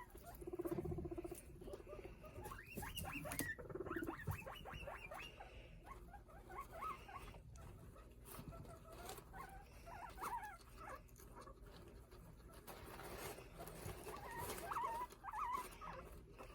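Guinea pig chirping: quick runs of short, high notes, in one bout a couple of seconds in and another near the end, with soft rustling and clicks in between.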